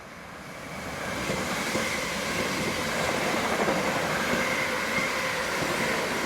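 An electric passenger train running past on the track: wheels rumbling on the rails, with a faint steady whine over it. It swells about a second in, holds, and fades near the end.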